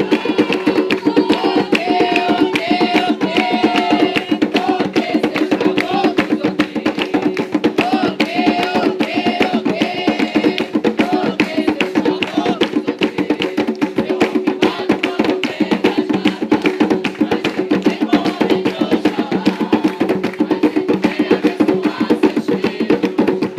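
Umbanda ceremonial drumming: hand drums and percussion keeping a fast, steady beat. Singing voices are heard over it mostly in the first half.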